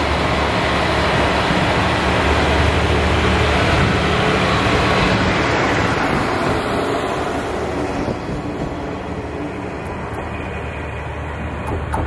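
Kashima Rinkai Railway diesel railcar passing close by: engine hum and wheels on the rails, building to its loudest in the middle and fading away after about eight seconds.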